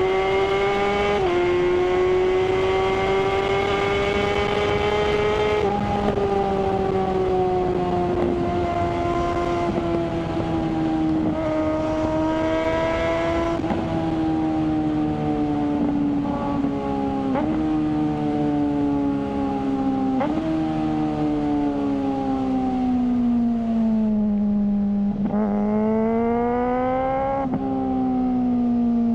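Suzuki GSR600's inline-four engine running through a GPR Ghost aftermarket exhaust while the bike is ridden. The engine note holds fairly steady, with several brief drops in pitch, and near the end it falls away and climbs again.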